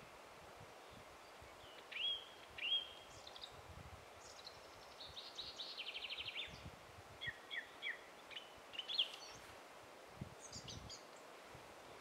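Songbirds singing over a faint steady outdoor hiss. There are two sharp notes, then a fast trill that falls in pitch, then scattered short chirps.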